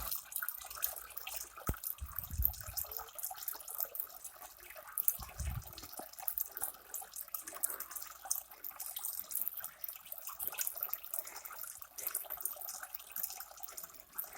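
Small stream running and trickling steadily, with two brief low bumps, about two and five seconds in.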